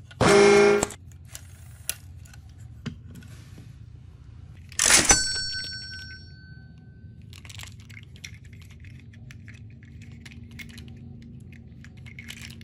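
A toy Percy engine's electronic sound effect: a single pitched buzzy tone lasting just under a second as its top is pressed. Then plastic toy train wagons being handled, with light clicks and rattles and one sharp clack about five seconds in that rings briefly.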